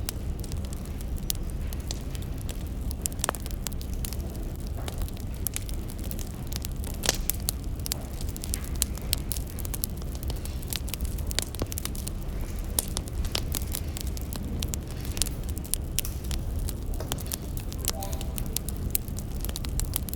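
Wood fire crackling: irregular pops and snaps over a steady low rumble.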